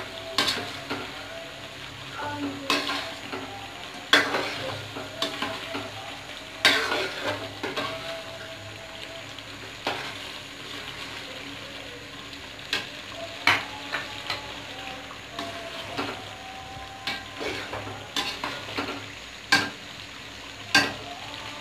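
Chicken and spice masala sizzling in hot oil in a metal karahi while a metal spoon stirs it, with irregular clinks and scrapes of the spoon against the pan over the steady frying hiss.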